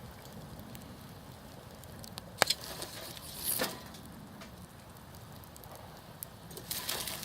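Wood campfire crackling, with scattered small pops, one sharp loud pop about two and a half seconds in, and a flurry of crackles near the end.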